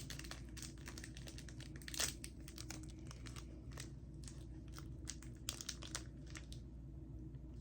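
Plastic snack wrapper crinkling and being torn open: a scatter of small crackles, with a louder one about two seconds in.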